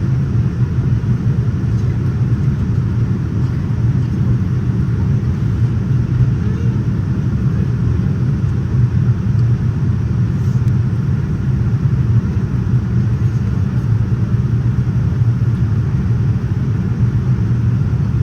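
Steady low rumble of cabin noise inside a Boeing 787-9 airliner in flight: airflow and engine sound heard from a passenger seat, even in level throughout.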